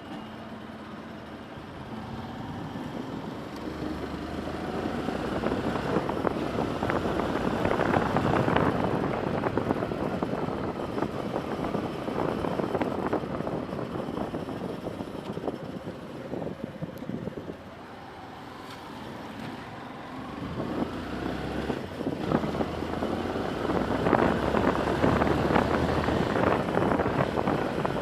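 Road traffic noise: motor vehicles running and going by, the rumble swelling louder about eight seconds in and again near the end, with a quieter lull in between.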